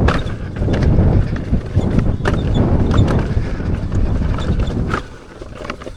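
Wind buffeting the microphone over the rumble of an electric unicycle's tyre on a dirt trail, with sharp knocks and clatters from the ride. The rumble drops away sharply about five seconds in.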